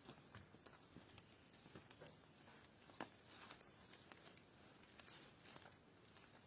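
Near silence with faint, scattered clicks and ticks, one sharper click about three seconds in.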